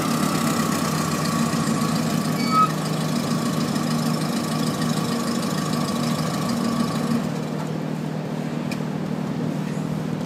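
Car engine running steadily; the higher hiss drops away about seven seconds in.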